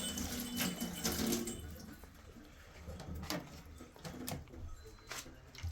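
Water running and splashing, strongest in the first second or so and then quieter, with a few sharp knocks later on.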